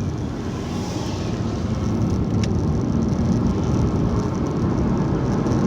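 Steady road noise of a car being driven, heard from inside the cabin: a low engine and tyre rumble.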